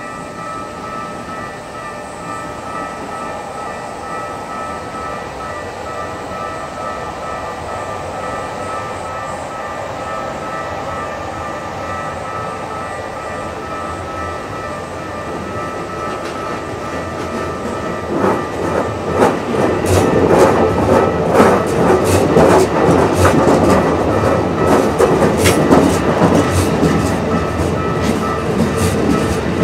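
Level-crossing warning bell ringing steadily. About 18 seconds in, a Keikyu 1500 series electric train passes, its wheels clattering rapidly over the rail joints and drowning out the bell.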